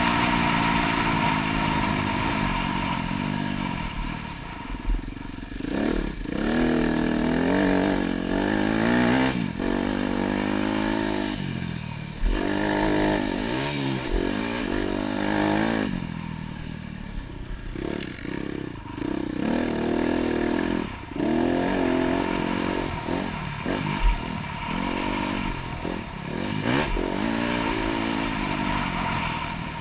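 Dirt bike engine revving up and falling back over and over as it is ridden around a motocross track, with the throttle shut off briefly several times. A few sharp knocks stand out, the loudest about halfway through and again near the end.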